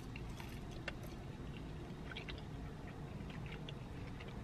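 Chewing and biting into chicken nuggets close to the microphone: scattered faint wet mouth clicks over a low steady hum.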